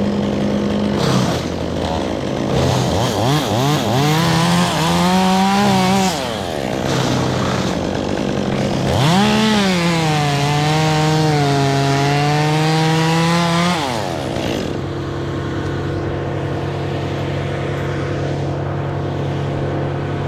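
Chainsaw engine revving up and cutting twice, its pitch rising and then sagging under load in each cut. About two-thirds of the way through it drops back to a steady idle.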